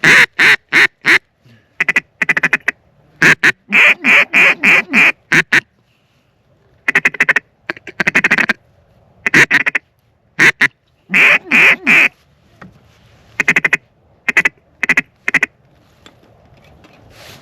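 Loud duck quacks in quick runs of several notes each, with short pauses between the runs.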